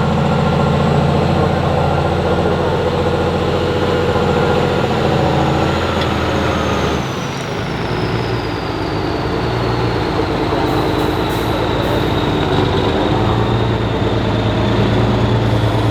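Heavy off-road trial truck's diesel engine running hard under load. Its note shifts about seven seconds in, and a high whine slides down in pitch.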